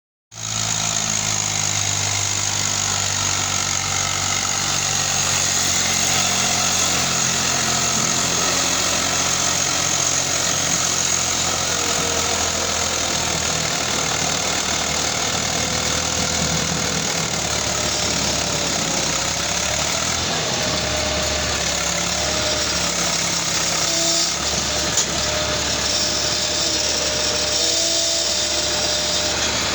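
Eicher 5150 tractor's diesel engine running steadily, with a loaded sugarcane trolley hitched behind.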